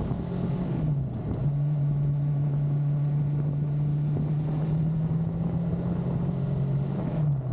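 Motorcycle engine running steadily while riding. The engine note dips briefly about a second in and again near the end, as the throttle eases off and comes back on or a gear changes.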